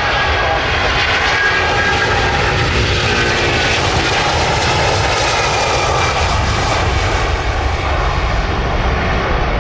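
Jet engines of a Jet2 Airbus A330 airliner passing close by: a loud, steady jet noise whose hiss grows brighter toward the middle and fades again, with a slowly sweeping tone as it goes past.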